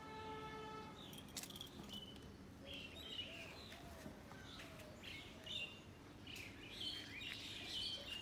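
Faint small birds chirping repeatedly in short, quick calls, with one brief pitched call right at the start.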